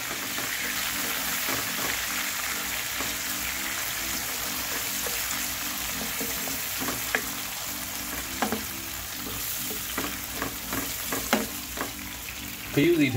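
Raw chicken slices frying in hot oil with garlic and green chillies: a steady sizzle. A wooden spatula stirs them and knocks against the pan several times in the second half.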